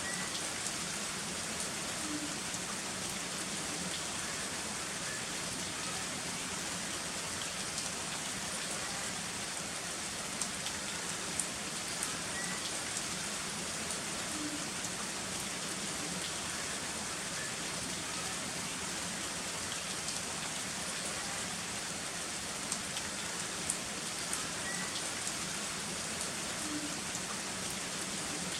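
Heavy rain falling steadily, with a few sharp drip-like taps standing out now and then.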